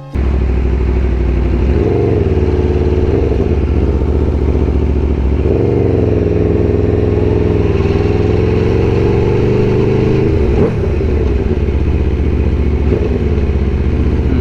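Aprilia RSV4 sport bike's V4 engine running under light throttle while riding at low speed. The engine note rises about two seconds in, eases off, rises again and holds, then drops back near the end.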